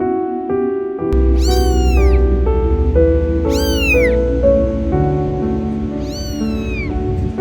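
Domestic cat meowing three times, each meow falling in pitch, over soft background music, with a low steady rumble under the meows from about a second in.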